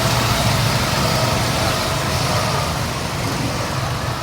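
Go-kart engines running steadily, a low hum under a broad hiss, easing off slightly near the end.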